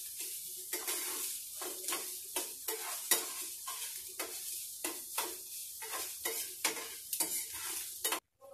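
Chopped onions and green chillies sizzling in hot oil in a pan while being lightly browned, with a metal spatula scraping and tapping against the pan as they are stirred, a couple of strokes a second. The sizzling and stirring cut off suddenly near the end.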